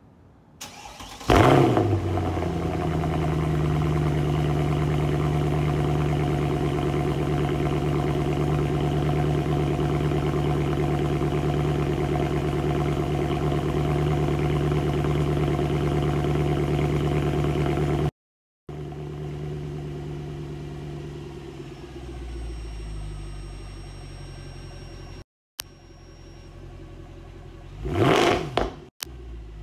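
Mercedes-Benz C63 AMG's 6.2-litre M156 V8 starting about a second in, its pitch rising as it catches, then idling steadily. After a cut at about 18 seconds it idles more quietly, and near the end a short rev rises and falls.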